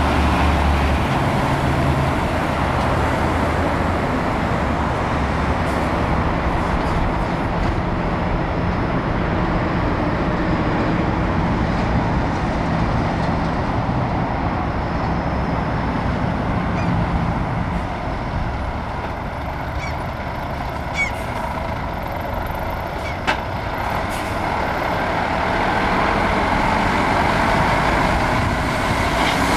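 Heavy diesel trucks running close by with a loud engine drone. It eases off for a stretch past the middle, where two short sharp sounds come a couple of seconds apart, and builds again near the end as another truck comes close.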